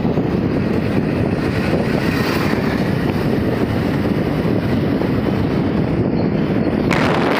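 Heavy rain falling, a steady rushing noise. Just before the end it turns suddenly brighter and hissier.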